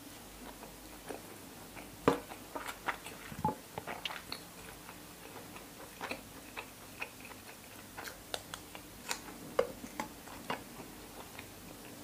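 Close-up wet chewing and mouth sounds: a woman chewing mouthfuls of sticky rice and raw pork liver salad. The sound is irregular clicks and smacks, the loudest about two seconds in and again about three and a half seconds in.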